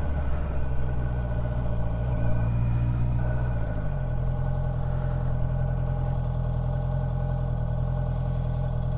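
Honda CB650F inline-four motorcycle engine running at low speed; its pitch drops about four seconds in, then it runs steady and low.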